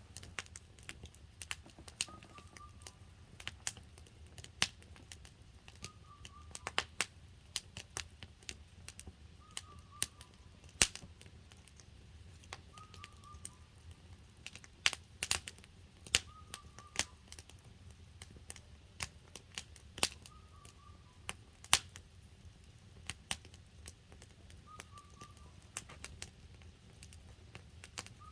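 Wood campfire crackling, with sharp irregular pops and snaps from the burning logs. A faint short chirp recurs every three or four seconds.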